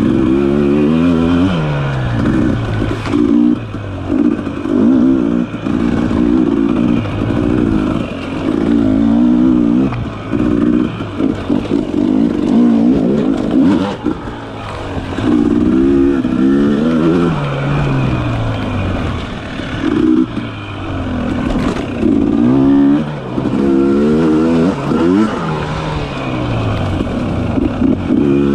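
Dirt bike engine revving up and backing off over and over, the pitch climbing in quick sweeps and dropping as the bike accelerates, shifts and slows through tight trail sections.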